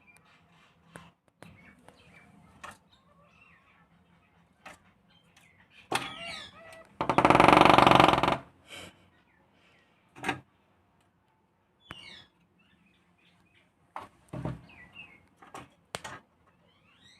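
Woodpecker at a window: scattered single sharp knocks and a few short, high, falling bird calls. About seven seconds in comes a loud noisy burst lasting nearly two seconds, the loudest sound.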